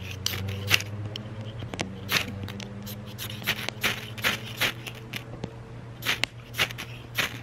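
Ferro rod (metal match) being struck again and again, a run of quick rasping scrapes a fraction of a second apart, failing to light the fire starter. A steady low hum runs underneath.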